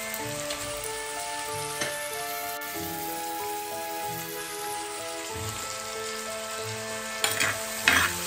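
Shallots, tomato and green mango pieces sizzling in coconut oil in a clay pot, with a steel spoon scraping and stirring against the pot near the end. Soft background music with held notes plays throughout.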